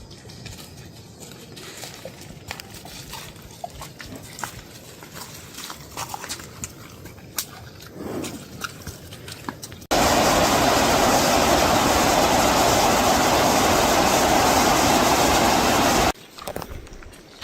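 Scattered small knocks and clicks, then about ten seconds in a loud, steady rush of water starts abruptly and cuts off just as abruptly some six seconds later.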